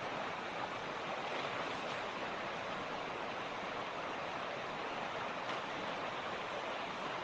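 Mountain creek running over rocks: a steady, even rush of water with no change.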